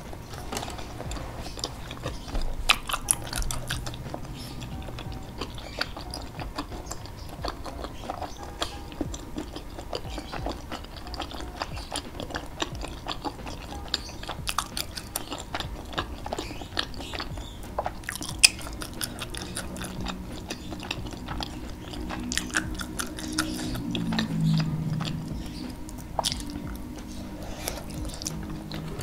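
Close-miked chewing of bakso meatballs in thick spicy sauce: wet, squishy mouth sounds and soft bites with many small clicks. A low tone slides down about three-quarters of the way through.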